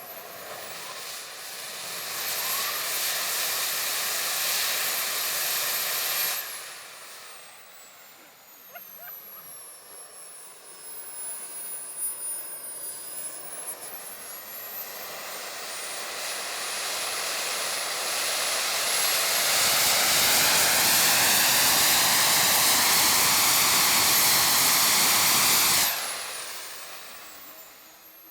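Twin AMT Olympus model jet turbines on a homemade jet pack, throttled up twice. They rise to a loud rush with a high whine, hold, and drop back sharply about six seconds in. They then spool up again more slowly to a louder hold at full throttle, and wind down a couple of seconds before the end.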